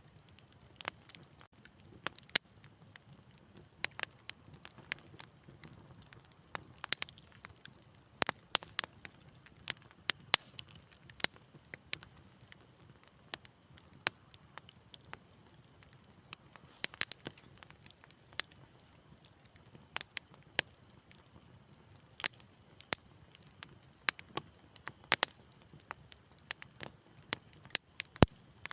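Wood fire crackling, with irregular sharp pops and snaps over a soft low rumble of burning.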